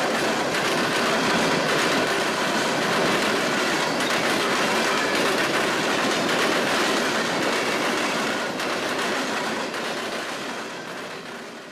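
Norfolk Southern freight train of empty open-top coal hopper cars rolling past: steady rumble and clatter of steel wheels on the rails and rattling car bodies, fading near the end.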